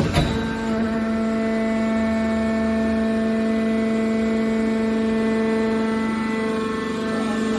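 Hydraulic power unit of a car scrap baler running with a steady, even whine, after a single sharp knock just at the start.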